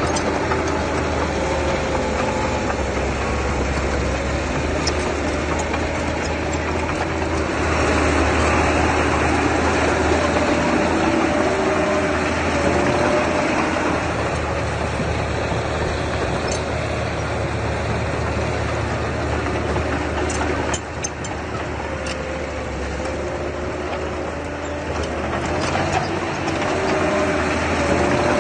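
Diesel engine of earthmoving machinery running continuously, its speed rising and falling a little. It gets louder for several seconds about a third of the way in and drops briefly about two-thirds through.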